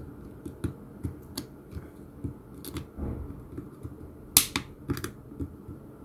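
Scattered clicks and light snaps of a plastic phone housing being pried open around its edge, its clips catching and letting go. The sharpest snap comes a little past four seconds in.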